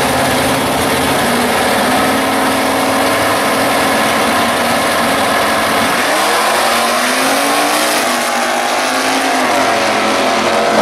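Drag-racing Chevrolet Camaro and Chevy Nova engines rumbling at idle on the starting line. About six seconds in, the engines rev up and pull away in rising sweeps of pitch as the cars launch down the strip.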